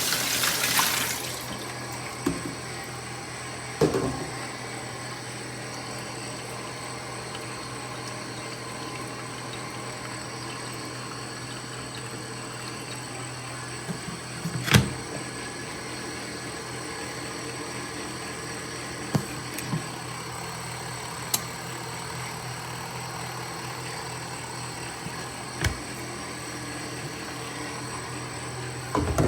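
Water draining from a portable mini washing machine's drain hose into a sink: a steady flow, louder in the first second or so, over a low steady hum, with a few short knocks.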